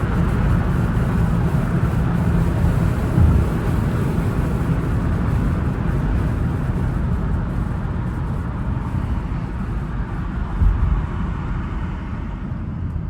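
Infiniti car being driven, its engine and road noise heard from inside the cabin, easing off slowly. Two brief thumps about three seconds in and near the end.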